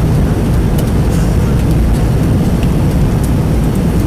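Airliner cabin noise in flight: steady low engine and airflow noise, with a few faint clicks.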